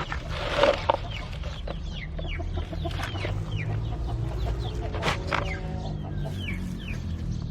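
Newly hatched chicks peeping in quick, short falling cheeps while a mother hen clucks low among them, most clearly about five seconds in. A steady low hum runs underneath.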